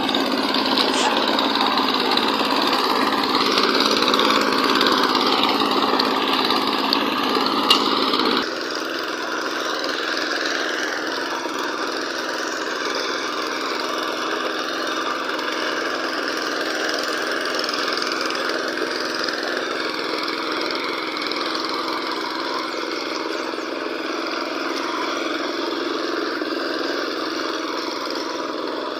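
Tractor engine running steadily. About eight seconds in the sound changes abruptly and becomes somewhat quieter and thinner, as at an edit, then runs on steadily.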